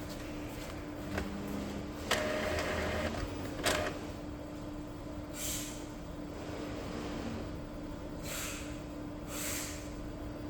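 Epson L3256 inkjet printer running a printhead cleaning cycle. Under a steady low hum, a motor whirs for about a second starting with a click about two seconds in, and another click comes shortly after. Three short hisses follow in the second half.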